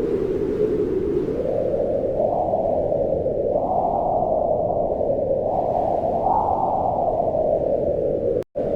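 Wind blowing in slow gusts, a low, hollow rush whose pitch swells up and sinks back every few seconds. Near the end the sound cuts out for a split second and comes straight back.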